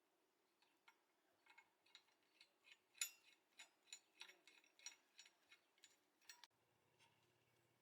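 Faint, irregular light clicks and clinks, about two or three a second, stopping about six and a half seconds in.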